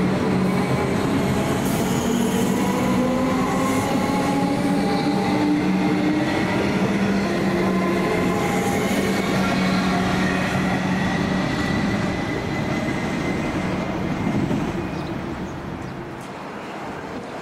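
Comeng electric multiple unit train running past along the platform: traction motors whining under a steady low hum, with wheel-on-rail noise. The whine slowly rises in pitch as the train gathers speed, and the sound fades away over the last few seconds.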